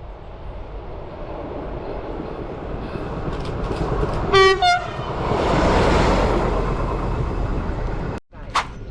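A train approaching and passing, its rumble and rush building steadily. About halfway through it gives two short horn blasts on two different pitches. The passing noise peaks just after the horn, then cuts off abruptly near the end.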